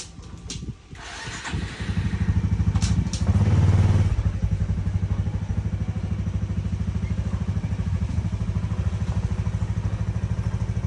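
Honda Biz's small single-cylinder engine starting about a second in after a few clicks, revving briefly, then idling with a steady, even pulse.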